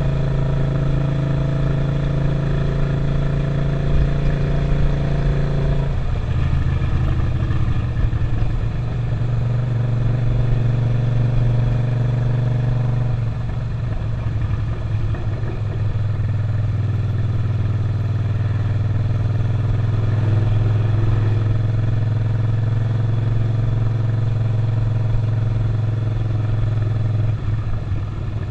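Suzuki SV650's 645 cc V-twin engine running on the road, heard from the rider's seat, with wind and road noise. Its pitch steps down about six seconds in and again around halfway, then holds steady.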